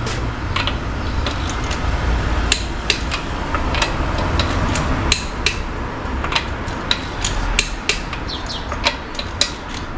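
Repeated sharp metal taps and clinks at irregular intervals, a tool working on a car's wheel nuts during a check for loose nuts, over a steady low rumble.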